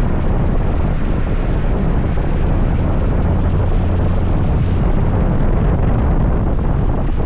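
Steady low wind rumble on the microphone of a moving scooter, with the scooter's engine and road noise mixed in beneath it.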